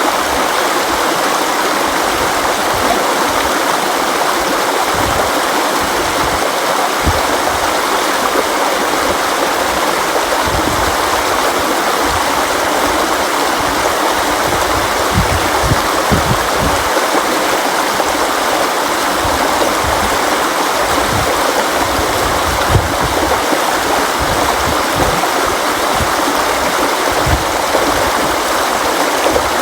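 River water flowing over rocks: a steady, dense rushing with irregular low gurgles and thumps underneath.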